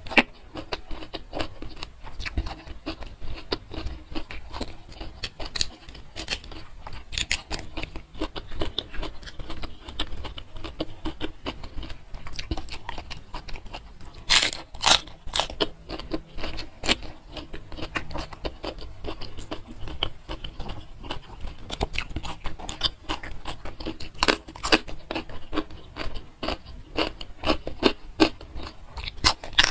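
Close-miked eating sounds from a meal of rice, chicken and raw vegetables eaten by hand: steady chewing with frequent wet smacks and clicks of the mouth. The loudest bursts of smacking come about halfway through and again near the end.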